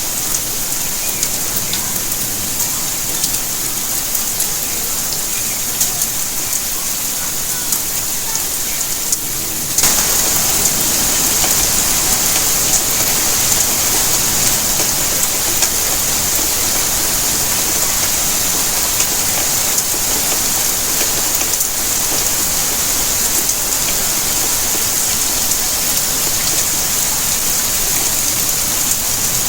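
Steady rainfall, a dense patter of drops, which abruptly becomes louder and heavier about ten seconds in.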